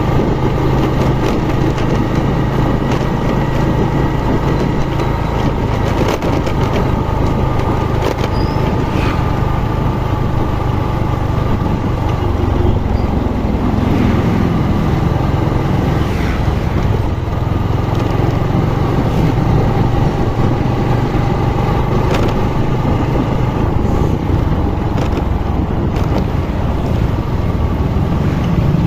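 A vehicle engine running steadily while on the move.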